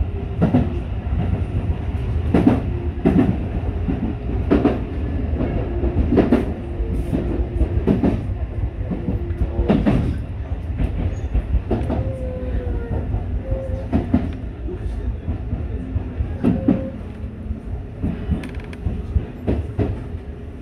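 Tobu 8000 series electric train running, heard from on board: a steady low rumble with the clack of wheels over rail joints every second or two. It grows a little quieter near the end.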